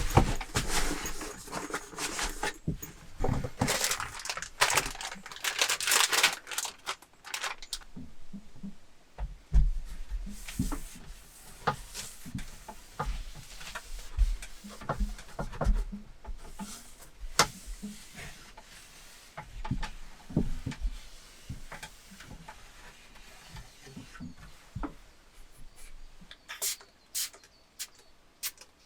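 Handling noises: rustling and a quick run of clicks and knocks for the first several seconds, then scattered single knocks and dull thumps.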